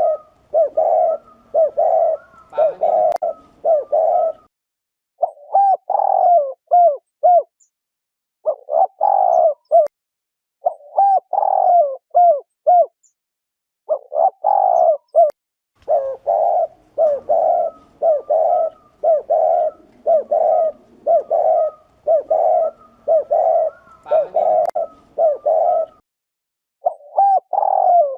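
Spotted dove giving its 'gù' coo: runs of low coos about two a second, broken by short pauses and by phrases of a longer coo followed by quicker short notes. This is the excited cooing used to provoke male doves and lure them to a trap.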